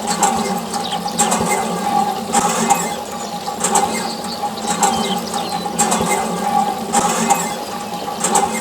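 Small water pump sending out a spray of water, with a steady hum under a splashing hiss that surges about once a second.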